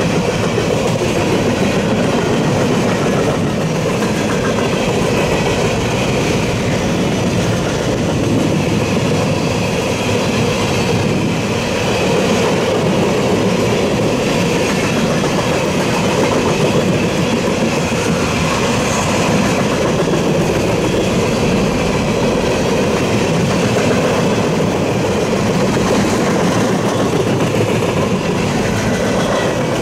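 Freight train cars, mostly refrigerated boxcars, rolling steadily past on the rails: a continuous loud rumble and clatter of steel wheels on track.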